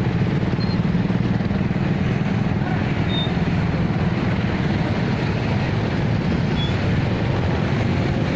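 Passenger train running by with a steady, even low rumble.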